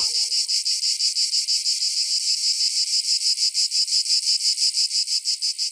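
Cicadas buzzing in a fast, even pulsing rhythm of about nine pulses a second.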